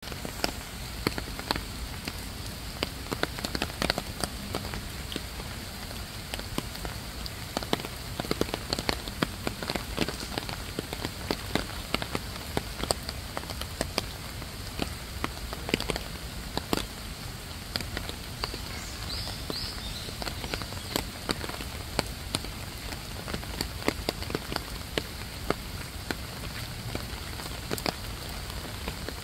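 Water falling in drops onto a hard surface: a steady pattering hiss with many sharp, irregular drip ticks.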